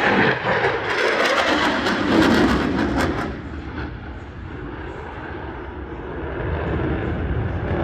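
F-16 Fighting Falcon jet engine roaring past in a loud low pass, its pitch falling as it goes by. After about three seconds it drops to a quieter rumble, which swells a little again near the end.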